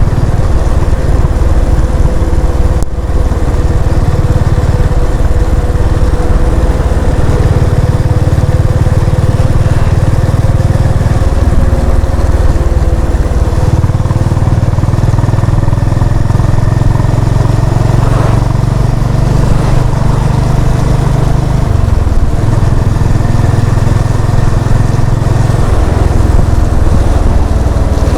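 Honda CB350 RS's air-cooled single-cylinder engine and exhaust running under way on the road. Its low note shifts several times, as around 11, 14, 22 and 26 seconds in.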